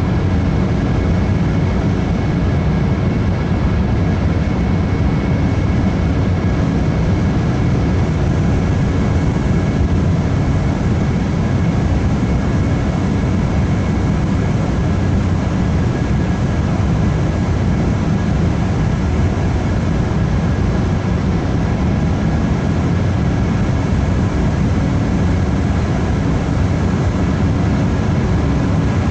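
Steady noise of an Embraer 190 airliner under way, heard from on board: an even drone from its General Electric CF34 turbofans and the airflow, with faint steady whine tones above it.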